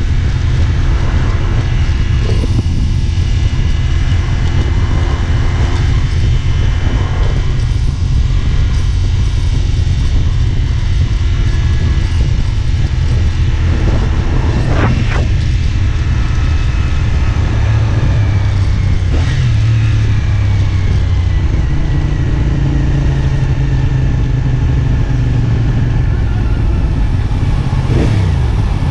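CFMoto 450SR S parallel-twin engine running while riding, with a heavy low rumble of wind under it. The engine pitch rises and falls a few times.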